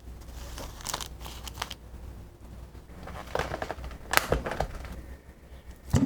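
Irregular clicks, taps and crinkling handling sounds, with a few sharper taps partway through.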